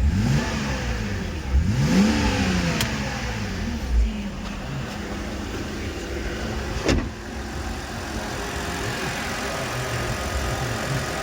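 Engine on test, revved briefly a couple of times in the first seconds, then settling to a steady idle, with a sharp click about seven seconds in.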